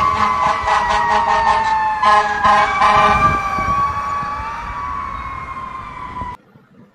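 Fire engine siren wailing with a slowly falling pitch, with two horn blasts about two to three seconds in. It fades, then cuts off suddenly near the end.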